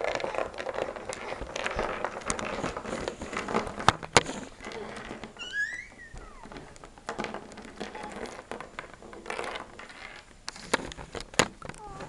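Small plastic toy figures and play pieces being handled and set down: rustling, with sharp taps about four seconds in and again near the end. A brief high squeak glides up and down a little past halfway.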